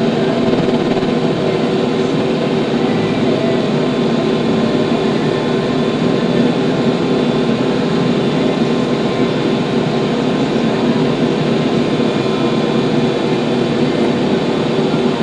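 TYM T574 tractor's diesel engine running steadily at a constant speed.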